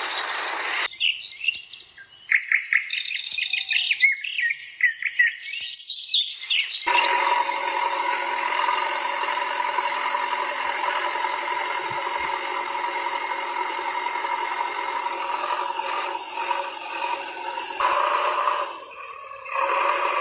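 Birds chirping in quick repeated calls for about six seconds, then a steady droning noise with a constant hum takes over for the rest.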